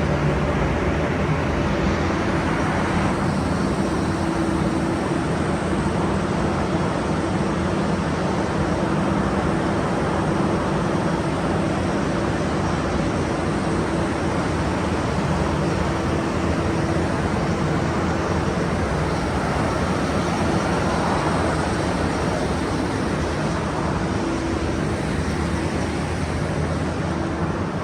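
Heavy machinery running steadily: a continuous mechanical hum with a few low pitched tones over a noisy rumble.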